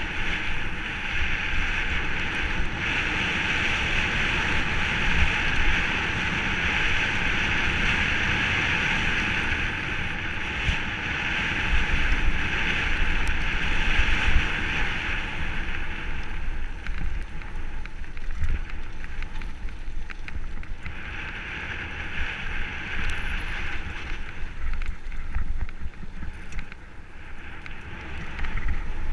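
Mountain bike descending a dirt forest trail at speed: wind rushing over the microphone and tyres rolling over the ground, with frequent low knocks from bumps. A high hiss is strong at first, drops away a little past halfway, and returns twice near the end.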